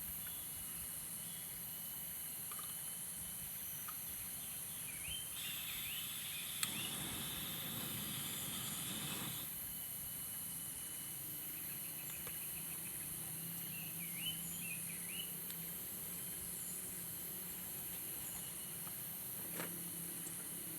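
Outdoor nature ambience: a steady high insect chirring runs throughout, with a few short chirping calls. About five seconds in, a rustling noise rises for roughly four seconds; there are also two brief clicks.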